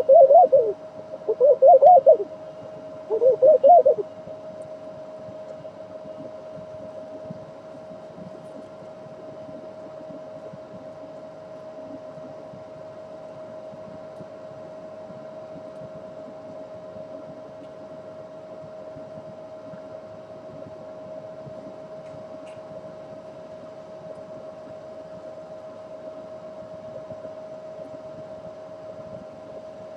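A dove cooing: three loud rising-and-falling coos in the first four seconds. After them a steady hum of one pitch and a faint hiss run on.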